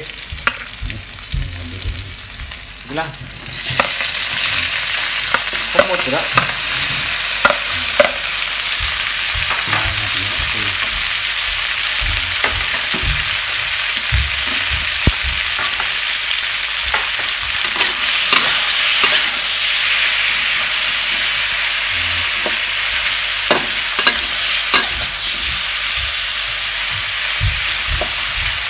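Tomato wedges tipped into hot pork lard in a metal wok with browned garlic and onion, setting off a loud, steady sizzle about four seconds in. A metal spatula scrapes and taps against the wok as they are stirred.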